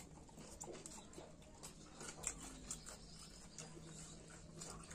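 Faint mouth sounds of someone eating rice and curry: chewing with many small, irregular wet clicks and smacks.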